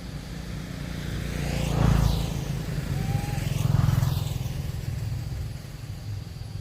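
Two motor vehicles passing close by one after the other, the first loudest about two seconds in and the second about four seconds in, over a steady low rumble of traffic.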